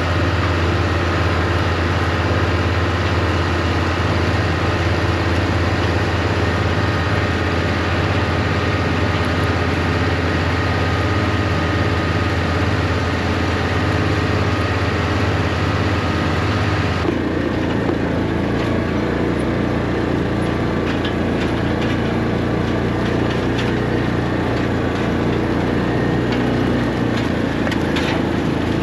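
New Holland tractor's six-cylinder diesel engine running steadily while pulling an anhydrous ammonia toolbar across the field. About seventeen seconds in, the engine sound changes abruptly to a lower, rougher tone and then runs on steadily.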